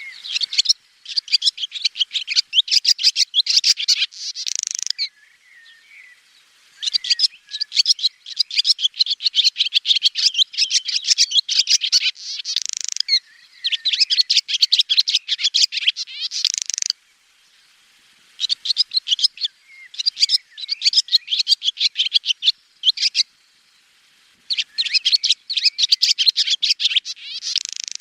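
Swallow twittering: rapid, high-pitched runs of chirps and trills in bursts a few seconds long, broken by short pauses, notably about five seconds in and again around the two-thirds mark.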